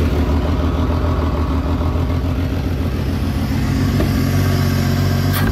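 Turbocharged BMW S52 inline-six idling steadily in its first running on the new turbo setup.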